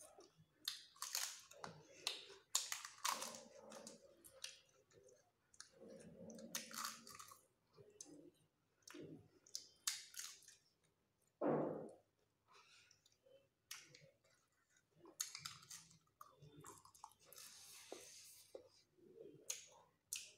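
People chewing food close to the microphone: irregular wet chewing and lip-smacking with short clicks, and one louder, deeper sound just past the middle.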